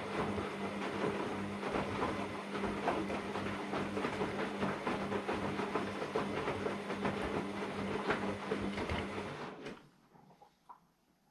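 AEG Lavamat Turbo washer-dryer with its drum turning during a wash: a steady motor hum under a dense, irregular clatter of tumbling laundry and drum. It stops suddenly near the end, the pause between the drum's turns.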